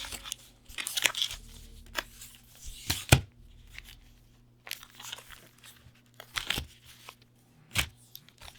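Trading card packaging being opened by hand: bouts of crinkling and tearing with several sharp crackles, the loudest about three seconds in, and a short lull around four seconds.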